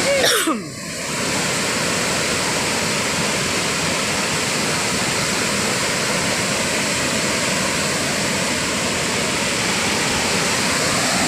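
Steady, unbroken rushing of fast-flowing water, as of a river running over rocks or a small waterfall.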